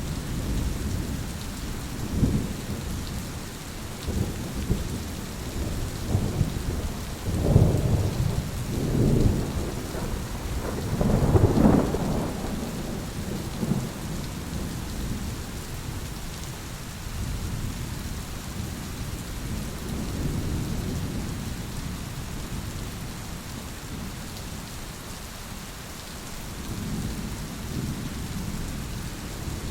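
Steady rain falling through a thunderstorm, with thunder rolling in low rumbles. The thunder builds over several swells to its loudest peal about twelve seconds in, then eases to a low background rumble, with a smaller roll near the end.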